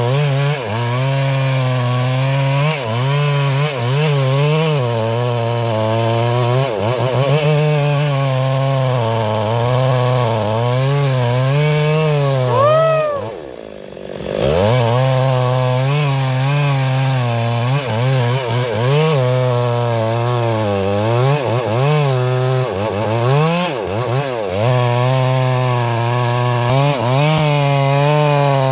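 Stihl MS382 two-stroke chainsaw cutting into a large sengon trunk, its engine pitch rising and falling as the chain loads and frees in the wood. About halfway through it revs up high, drops into a brief lull, then bites back in and carries on cutting.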